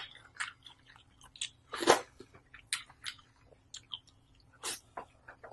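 Close-miked eating: chewing and biting food, a run of irregular wet clicks and smacks from the mouth. A sharp one comes right at the start and the loudest about two seconds in.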